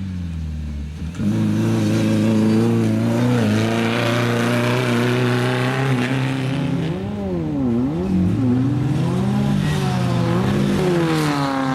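Off-road desert race vehicle's engine running hard at high revs, steady at first. In the second half the revs drop and climb again several times.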